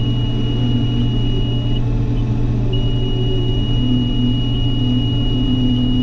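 Case IH combine running steadily, heard from inside the cab as a deep engine drone. A thin, high-pitched warning tone sounds over it, breaks off about two seconds in and comes back a second later.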